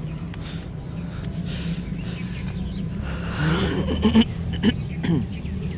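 A steady low engine hum, with a few short pitched calls and clicks over it about three and a half to five seconds in.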